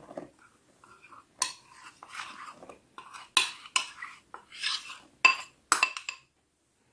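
Kitchen utensils knocking and scraping against a bowl, about eight sharp clinks with brief metallic ringing, as dry coating ingredients are measured out.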